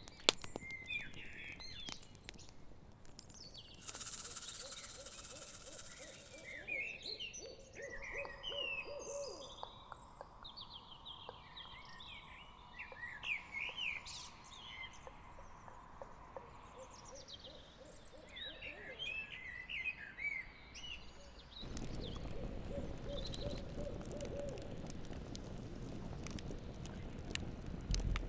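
Night forest soundscape of an owl hooting, with chirping bird calls and the scattered crackle of a campfire. There is a brief burst of hiss about four seconds in, and the background grows fuller from about 22 seconds.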